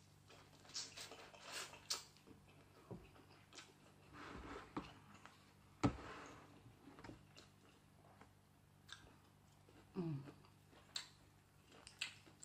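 Close-up eating sounds: biting and chewing corn on the cob, with scattered small clicks and one sharp knock about six seconds in. A short falling vocal sound comes about ten seconds in.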